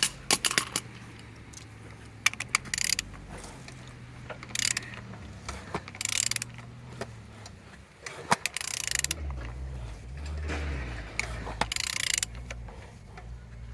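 Ratchet wrench clicking in several separate strokes as a VW CAYC 1.6 TDI diesel engine is turned over by hand. The engine turns freely and has compression on all cylinders.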